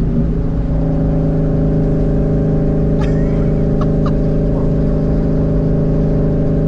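Twin-turbo Ford Mustang's engine droning loudly at a steady speed through open exhaust dumps, its pitch holding level.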